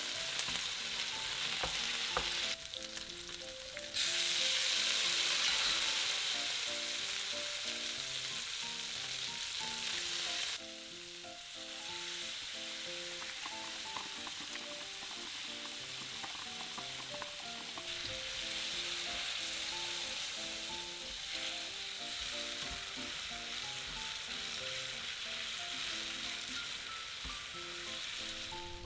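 Food sizzling in a hot frying pan as it is stirred, the sizzle jumping louder and softer at cuts. Gentle piano music plays underneath.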